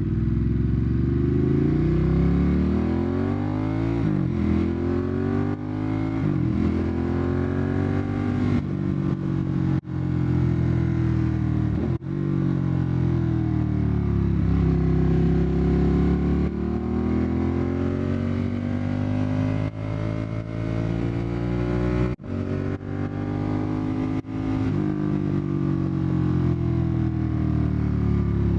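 Ducati Monster 1200's L-twin engine, loud through an Austin Racing exhaust, under way: revs climb and drop again and again as the bike accelerates and shifts. There are short breaks in the sound at about ten, twelve and twenty-two seconds in.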